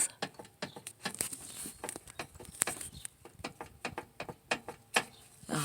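Metal deck pulleys on a Craftsman riding mower's 46-inch deck being rocked by hand to check for play, giving irregular clicks and knocks several times a second with no engine running.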